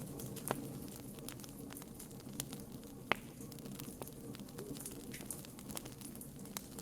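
Wood fire crackling, with irregular sharp pops over a steady low rumble of burning; the loudest pops come about half a second in and about three seconds in.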